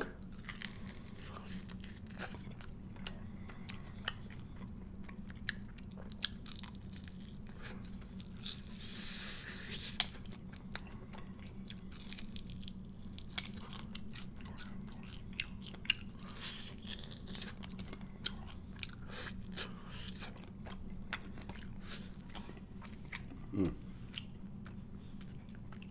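Close-miked chewing and biting of fried chicken, teeth tearing meat and breading off the bone, with many small wet clicks and crunches.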